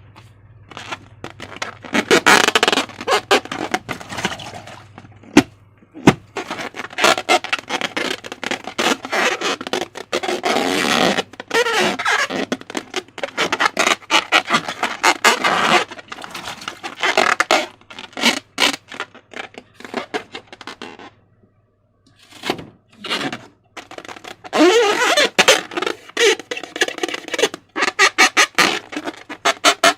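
Slime being squished and stretched by hand: wet, sticky crackling and squelching in bursts, with a short pause about two-thirds through.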